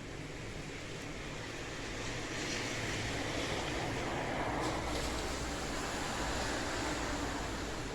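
Rain falling steadily, swelling louder for a few seconds in the middle and easing off near the end.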